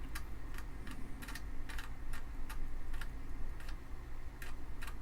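Amiga 500's 3.5-inch floppy drive reading a boot disk: the read head steps with sharp clicks, about three a second, over the low hum of the running drive.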